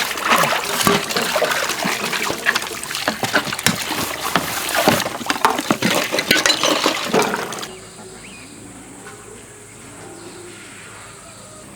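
Water splashing and sloshing in a busy, irregular run of small splashes, cutting off suddenly about eight seconds in to a much quieter steady background.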